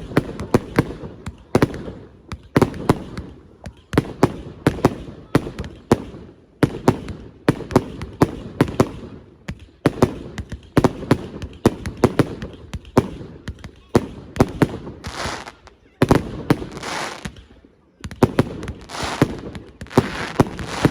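Fireworks display: a dense barrage of sharp bangs from exploding shells, several a second, with a hissing crackle over the bangs in the last few seconds.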